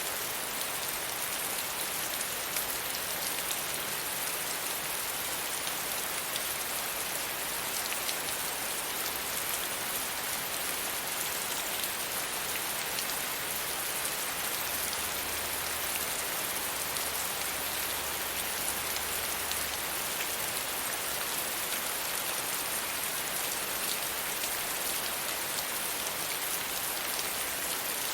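Steady rain falling on a surface, an even hiss with a few separate drops ticking now and then.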